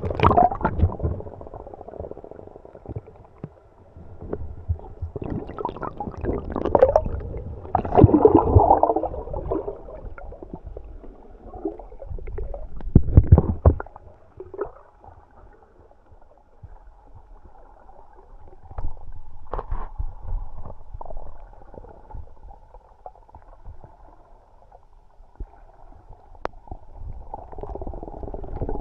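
Muffled underwater sound through an action camera's waterproof housing: gurgling water and low rumbling, swelling louder several times, with a few faint clicks.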